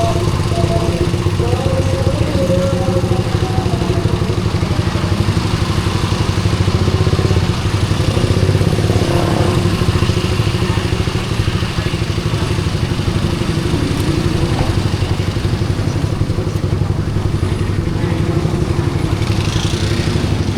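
Suzuki GSX-R150's single-cylinder four-stroke engine running steadily through a SARP aftermarket exhaust. It makes a low, even pulsing with no sharp revving.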